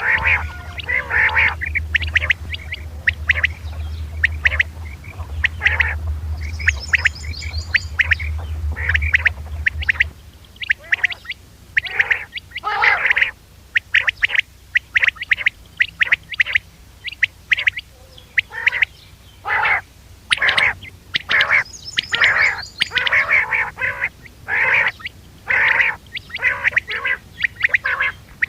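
Quail calling over and over in short, sharp notes, a recorded lure call for quail hunting. A steady low hum runs under the calls for about the first ten seconds, then stops.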